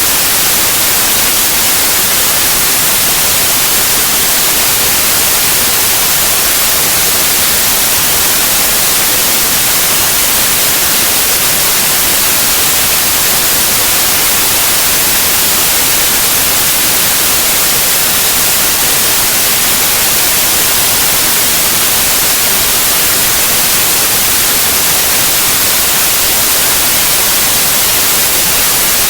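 Steady, loud white noise: an even, unchanging hiss strongest in the high frequencies.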